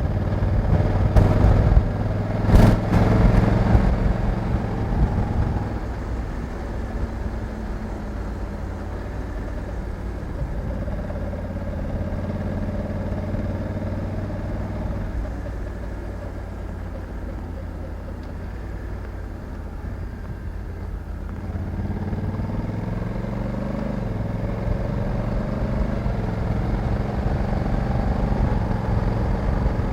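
Honda Africa Twin 1100 DCT's parallel-twin engine running under way, with a few sharp knocks in the first few seconds. The engine note settles lower and steadier through the middle, then rises again as the bike accelerates in the last third.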